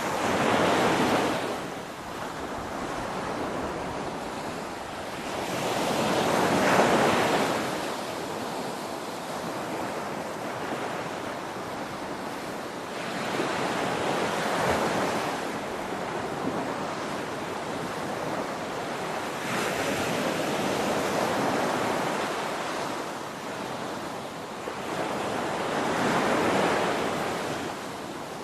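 Ocean waves breaking on a shore: a steady rushing wash that swells into five louder breakers, the loudest about a quarter of the way through.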